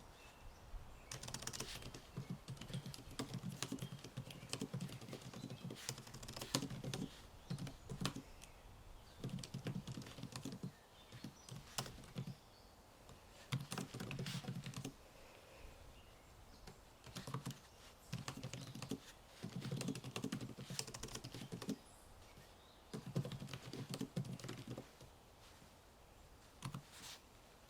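Typing on a computer keyboard in quick bursts of keystrokes lasting a second or two, with short pauses between bursts.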